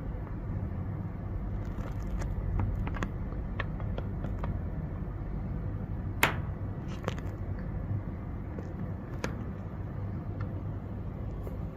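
Small clicks and scrapes of test leads and connectors being handled while the relay test is wired up, with one sharper click about six seconds in, over a steady low hum.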